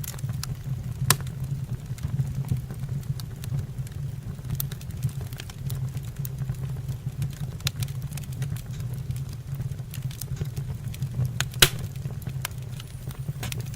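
Wood fire crackling in a fireplace: scattered sharp pops and snaps over a steady low rumble, with two louder pops, one about a second in and one near the end.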